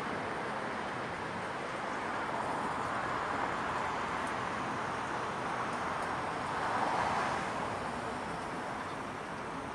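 Steady wash of distant road traffic, swelling about seven seconds in as a vehicle passes closer, then easing off.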